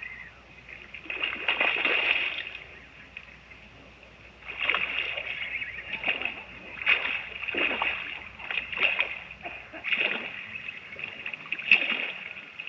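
Water splashing in short, irregular bursts: one stretch a second or so in, then a quieter gap, then repeated splashes from about four and a half seconds in.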